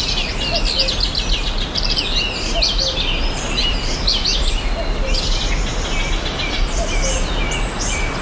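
Several birds chirping and trilling in a dense, overlapping chorus, over a steady low background hiss of outdoor ambience.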